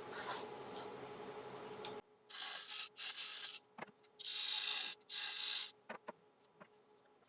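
A wood lathe runs with a tool cutting the recess and dovetail in an Iroko blank; about two seconds in, that steady sound cuts off abruptly. Four short rasping scrapes against the wood follow, with a few light clicks, while a faint high whine lingers and fades near the end.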